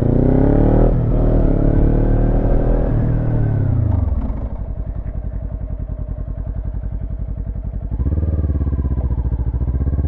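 Motorcycle engine accelerating with rising pitch, then falling in pitch as the bike is braked hard and downshifted to a stop. It settles to a pulsing idle about four seconds in, with a small rise about eight seconds in.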